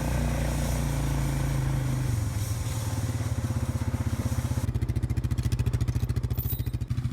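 Engine running steadily, then settling from about two seconds in into an even, rapid throbbing like an idle.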